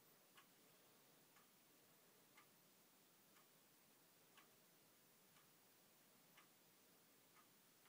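A clock ticking faintly, once a second, every other tick softer.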